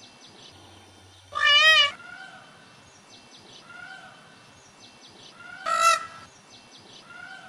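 Two loud animal cries with a wavering pitch, about four seconds apart, over a background of soft calls that rise and fall every couple of seconds and high chirps.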